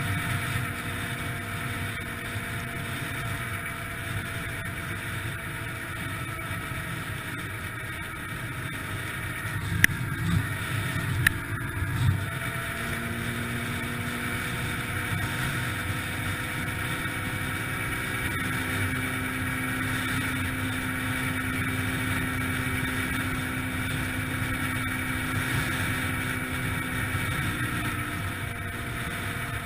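Yamaha TTR-125LE dirt bike's single-cylinder four-stroke engine running steadily under way, with a few sharp knocks about ten to twelve seconds in.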